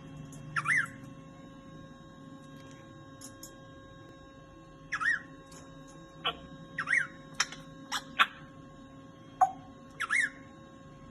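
Grey parrot giving short whistled calls that rise and fall in pitch, four times, with a few sharp clicks between them in the second half.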